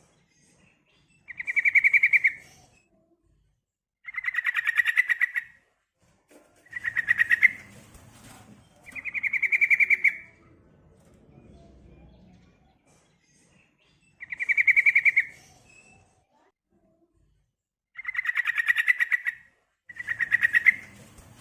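Yellow-vented bulbul (trucukan) female calling: a fast, rattling chatter trill, each call about a second long, repeated seven times with pauses of one to four seconds between them.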